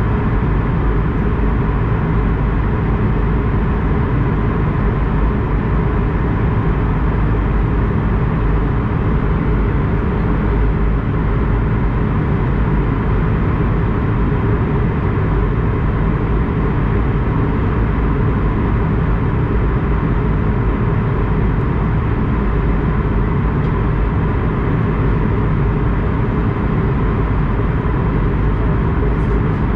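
Airbus A220-100's Pratt & Whitney PW1500G geared turbofan engines running, heard as a steady low rumble with a faint even hum over it, holding the same pitch and level throughout.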